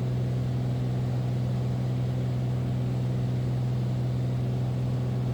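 Beechcraft Bonanza's piston engine and propeller droning steadily in cruise, heard in the cockpit as an even low hum.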